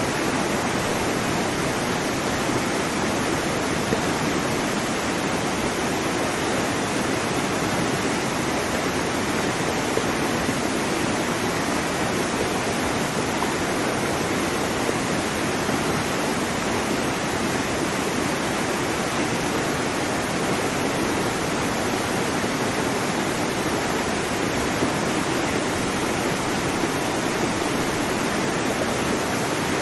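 Waterfall, a steady rushing of falling water with no breaks or changes.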